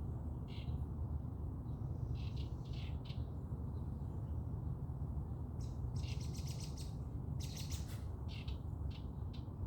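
Small songbirds chirping, with short calls scattered through and two rapid trills about six and seven and a half seconds in, over a steady low rumble.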